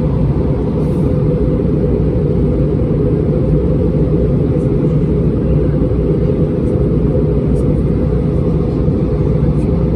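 Cabin noise of an Airbus A320-231 airliner: a steady low rumble of engine and air noise that holds level throughout.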